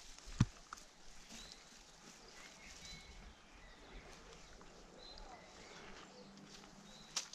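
Quiet woodland with faint, scattered bird chirps. There is a light knock shortly after the start and another near the end.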